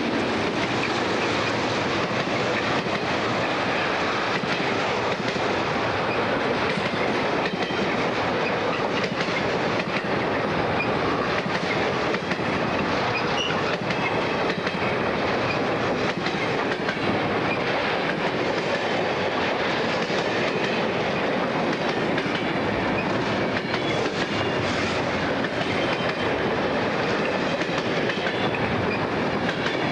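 Freight train wagons rolling past close beside the track, the wheels clicking over the rail joints in a steady clickety-clack amid the rattle of the passing wagons.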